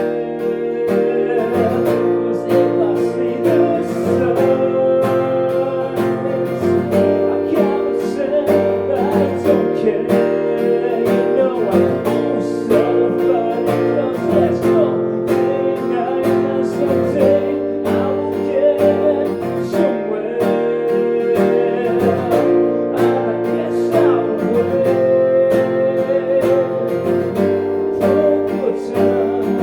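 Acoustic guitar strummed in a live performance, with a voice singing along.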